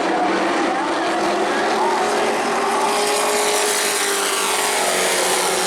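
Race trucks' engines running at high revs around an oval track, several at once. About halfway through, one passes close and its engine pitch falls as it goes by.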